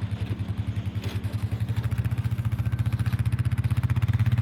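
A vehicle engine running: a steady low drone with a fast, even pulse that grows gradually louder.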